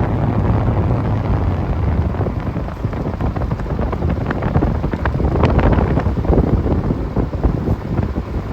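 Wind buffeting the microphone: a loud, uneven low rumble that swells and dips, with scattered crackles.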